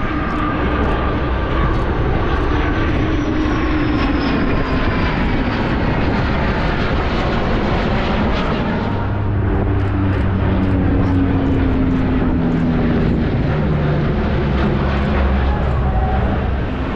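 Military aircraft flying past in a joint formation of a C-2 transport, F-15 fighters and an E-2C: steady engine noise with tones that slowly fall in pitch as they pass, and a deeper steady hum that comes in about halfway through.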